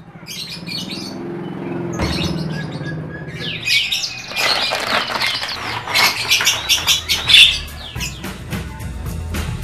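Birds chirping and twittering in many quick, gliding calls, densest from about four seconds in, over faint background music.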